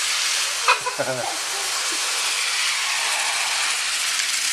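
Battery-powered Thomas TrackMaster toy engine, Bumblebee James, running flat out round plastic track: a steady, dense buzzing rattle from its small motor, gears and wheels, overdriven on a 9-volt battery in place of its usual 1.5-volt C cell.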